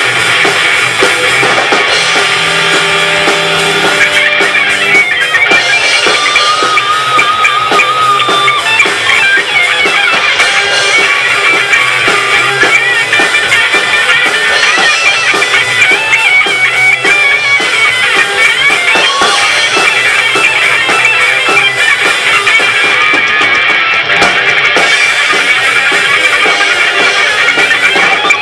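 Rock band playing live: electric guitar over a drum kit, with a held, wavering note about six seconds in.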